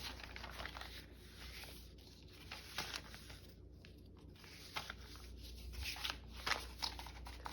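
Sheets of paper being handled and folded: faint rustling with a few light taps and brushes of paper.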